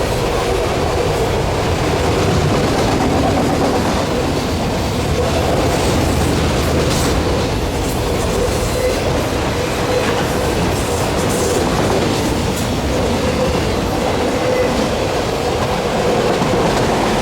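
Freight cars of a passing train rolling by, a steady rumble of wheels on the rails with a faint steady whine and occasional clicks at the rail joints.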